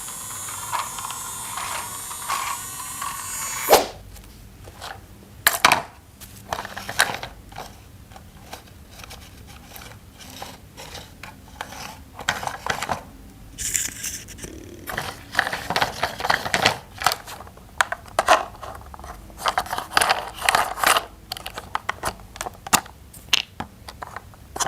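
Plastic toy pieces being handled and fitted together: irregular clicks, knocks and small scrapes. A steady hiss runs for the first few seconds and cuts off with a sharp click.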